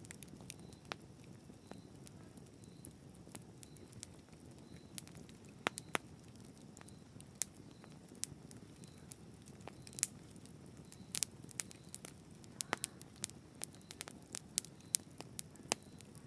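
Campfire burning: a steady low rush of flame with frequent sharp, irregular crackles and pops from the burning wood.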